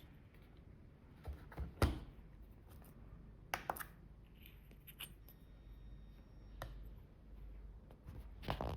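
Scattered light knocks and clicks as small anodized aluminium machined parts are handled and set down on a weighing scale. The sharpest knock comes about two seconds in.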